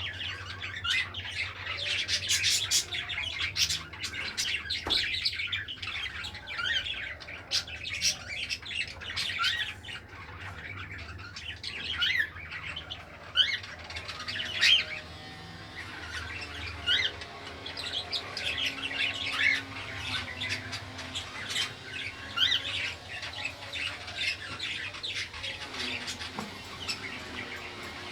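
Caged pet bird chirping and squawking, many short high chirps in quick succession with brief pauses.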